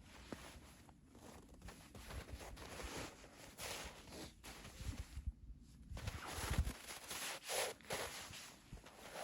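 Irregular rustling and scuffing, with a few dull low thumps a little past the middle.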